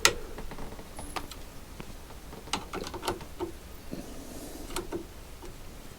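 Scattered metallic clicks and knocks of hand-tool work with an Allen key on a motorcycle's handlebar and fork clamp. A sharp click at the very start is the loudest, and a handful of lighter taps follow.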